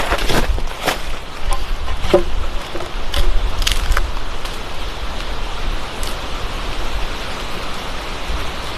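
Steady heavy rain, with wind buffeting the microphone in a low rumble and a few sharp taps of drops or drips in the first few seconds.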